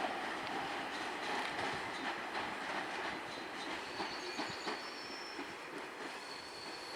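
EN57 electric multiple unit rolling on the track, its wheels clicking over rail joints, with a faint high wheel squeal from about three seconds in.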